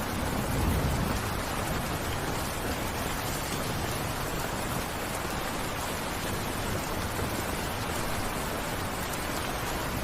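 Steady rain falling, an even hiss with a brief low rumble swelling about a second in.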